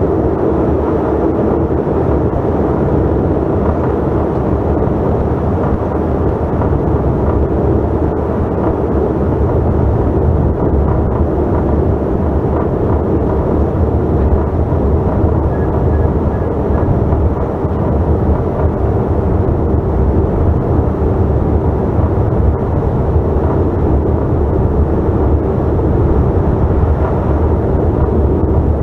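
Steady cabin noise inside a Bombardier CRJ900 regional jet: a deep rumble with a steady engine hum from its rear-mounted GE CF34 turbofans.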